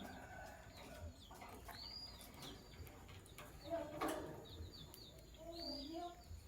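Lovebirds chirping: a few short, arched high chirps, with lower warbling bird calls in the background and a sharp click about four seconds in.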